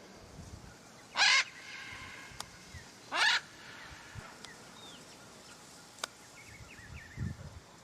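A bird giving two loud, harsh calls about two seconds apart, with faint short chirps of other birds after them.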